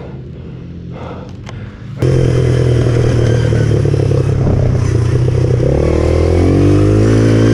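Pit bike engine running, with a few clatters at first; about two seconds in it gets suddenly much louder, and near six seconds in the engine pitch climbs as the bike revs up and accelerates.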